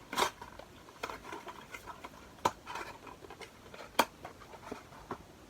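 Packaging and products being handled: three sharp taps or clicks, the loudest about a quarter second, two and a half and four seconds in, with light scratching and rustling between them.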